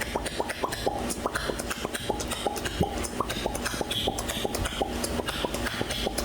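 A parrot making a quick, rhythmic run of clicks, about three or four a second, each with a short falling pitch.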